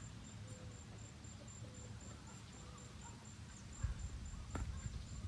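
An insect, likely a cricket, chirping steadily: a short high note repeated about four to five times a second. Low rumbling knocks come in near the end.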